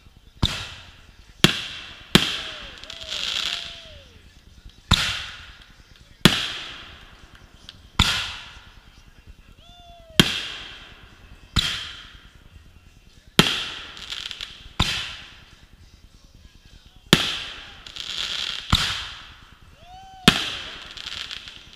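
Aerial firework shells bursting overhead in a steady run: about thirteen sharp bangs, one every second and a half or so, each trailing off in a fading echo.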